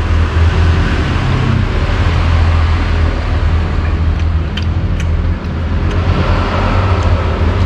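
Road traffic going by, a steady rumbling drone with a noisy hiss over it. A few light clicks come just past the middle.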